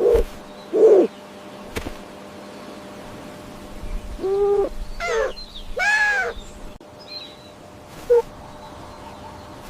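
A series of short animal calls, about six in all: two near the start, three close together in the middle with arched rising-then-falling pitch, and one brief call near the end.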